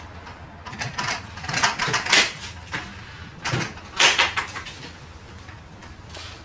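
Household handling noises: several short scrapes and rustles as things are moved about, the loudest about two and four seconds in.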